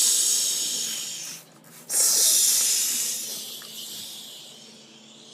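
Water jets of a Ryko Soft Gloss automatic car wash spraying with a loud hiss in two surges, each fading away, over a faint steady machinery hum.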